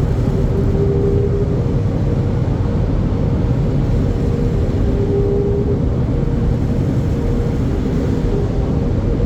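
Automatic car wash machinery heard from inside the car's cabin: a loud, steady noise with a constant hum, and a slightly lower tone that comes in twice and fades.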